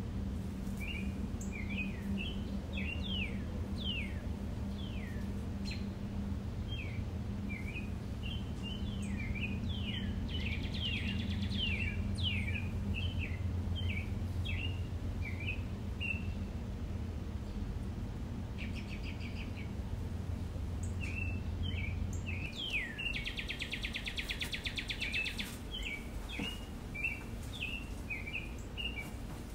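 Small birds chirping again and again in short, quick, falling chirps, with a fast buzzy trill twice, over a steady low hum that stops about two-thirds of the way in.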